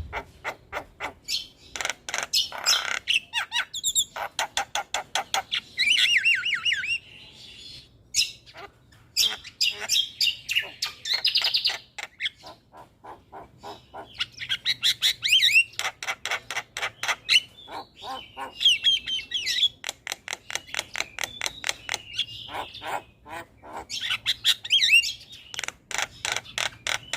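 Javan mynas (jalak kebo) calling: fast runs of short harsh chattering notes, about six a second, broken every few seconds by clusters of downward-sweeping whistled notes.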